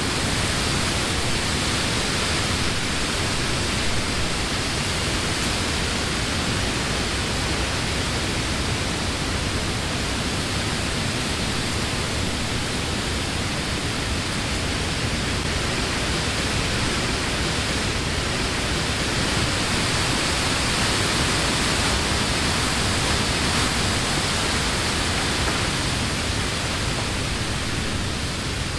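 Wind blowing through the leaves of trees: a steady, dense rushing hiss that swells and eases gently.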